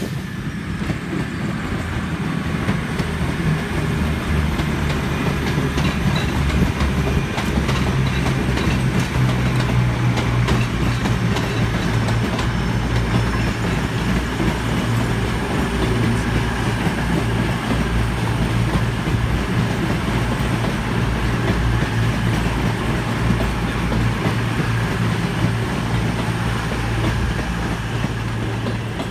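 A train running close by: a steady, loud low drone with a stream of light clicks from the wheels on the rails.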